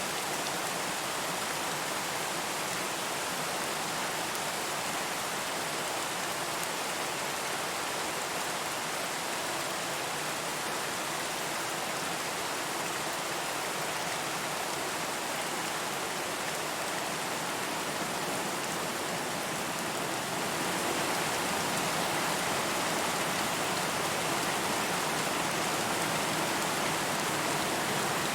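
Steady rain, a dense even hiss of falling drops with no single drops standing out, growing slightly louder about two-thirds of the way in.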